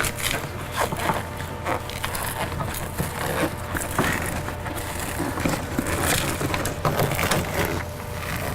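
Plastic door water shield being peeled away from the door's adhesive, with irregular crackling and crinkling snaps.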